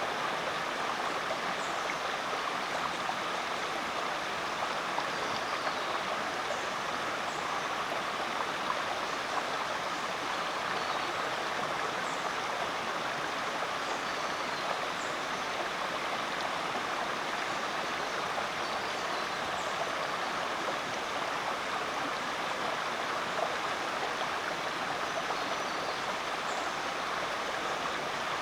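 Rainforest creek water running steadily, an even rushing flow with no breaks.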